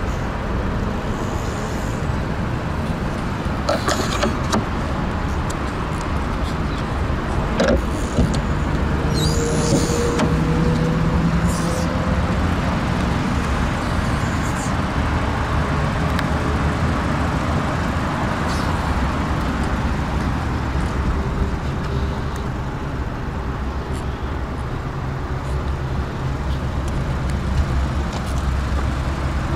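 Steady car noise: the Skoda Octavia's 1.4 TSI turbo four-cylinder idling very quietly and smoothly among background road traffic, with a few light clicks and knocks about 4 and 8 seconds in.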